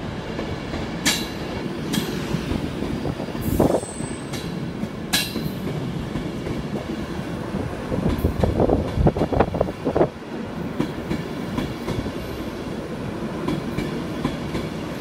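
A train running on the track, its wheels knocking over rail joints and points in irregular clusters, densest and loudest about eight to ten seconds in.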